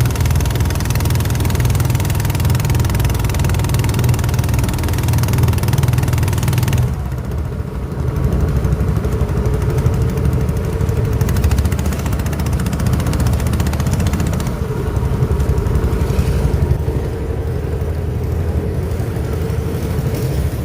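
Small boat's engine running steadily. About seven seconds in the hiss above it drops and the note changes a little.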